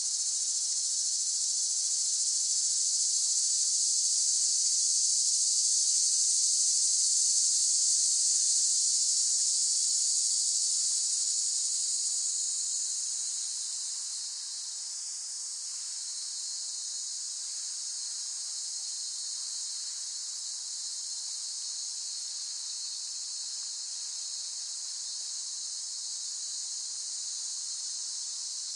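A chorus of cicadas buzzing in a steady, high-pitched drone. It is louder at first, eases down about halfway through, and then holds steady.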